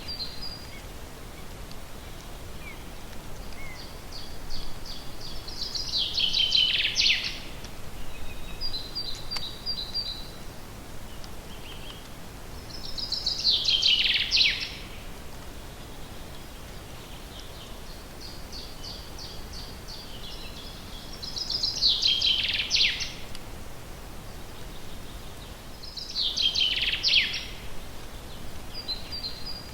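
A songbird singing the same short song four times, about every seven or eight seconds: a run of high notes that speeds up and drops in pitch at the end. Short high calls come between the songs, over a steady forest background hiss.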